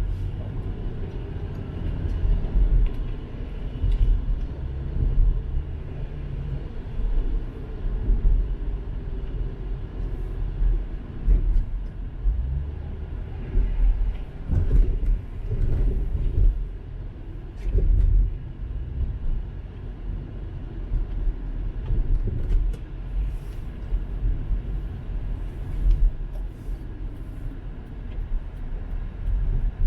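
Car driving: a low road-and-engine rumble that swells and dips unevenly.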